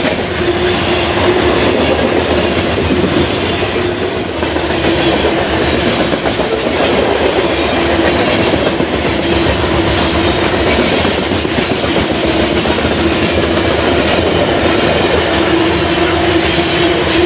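Freight train of covered hopper cars rolling past close by at speed: a steady rumble and rattle of the wagons' wheels on the rails, with a steady hum that swells and fades.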